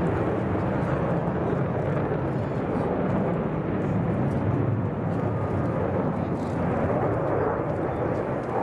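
Jet noise from F-15 fighters in flight: a steady, even roar of twin turbofan engines with no sudden changes.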